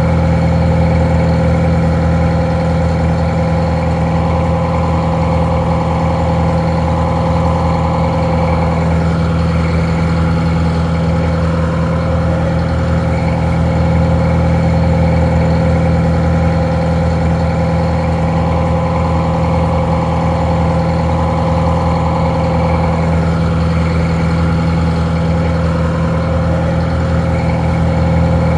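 Detroit Diesel 4-71 two-stroke inline four-cylinder diesel idling steadily, its note somewhat muffled.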